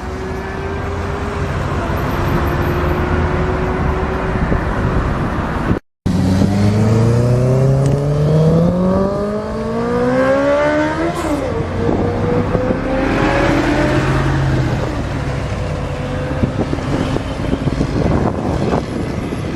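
Motorcycle engine under way with wind noise, then, after a brief cut, accelerating hard with its pitch rising steadily for about five seconds before dropping sharply and settling to a steady run.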